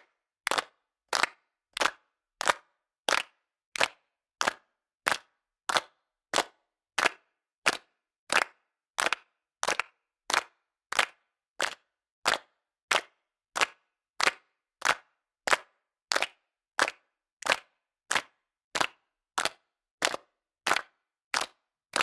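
A small group clapping in unison, one clean, sharp clap about every two-thirds of a second in a steady rhythm, with silence between the claps.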